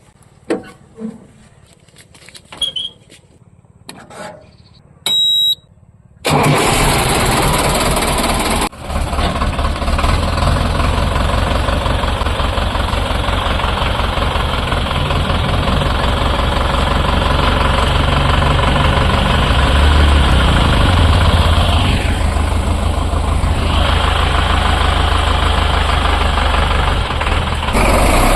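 A few light clicks and knocks, then about six seconds in the Sonalika DI 750 tractor's diesel engine starts suddenly and loudly, dips briefly about two seconds later, and then runs steadily.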